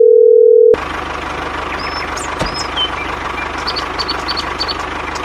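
A steady electronic beep tone cuts off under a second in, giving way to an engine running steadily at idle with a fast, even low knock. Birds chirp over it.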